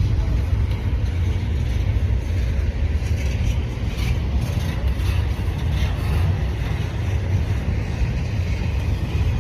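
Long CPKC freight train rolling past, a steady low rumble with faint rattles from the cars around the middle.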